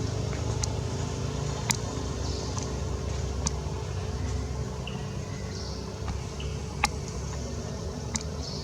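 A steady low mechanical drone, like a motor running nearby, with a few sharp clicks scattered through it.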